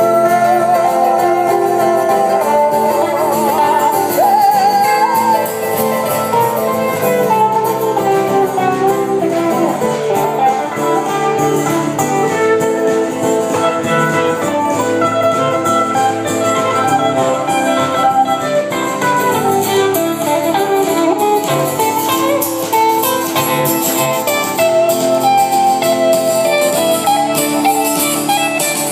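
A band playing an instrumental passage of a folk-style song, led by guitar, with wavering held notes in the first few seconds.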